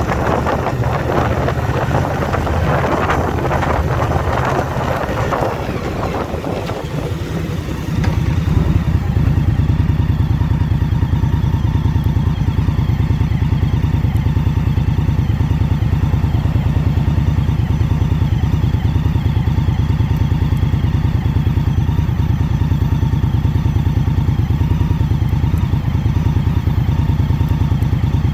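Indian Scout Bobber Twenty's V-twin engine running under the rider, with wind rushing over the microphone. About eight seconds in the wind noise drops away and the engine's steady low note takes over.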